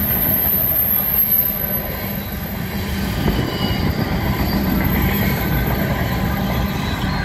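Empty steel coal cars rolling past on the rails, a steady rumble and clatter of wheels over the track, with a few faint high wheel squeals around the middle.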